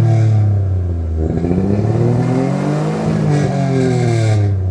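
1986 Nissan 300ZX's turbocharged VG30ET V6 running under way. The revs fall, climb for about two seconds, then fall off again.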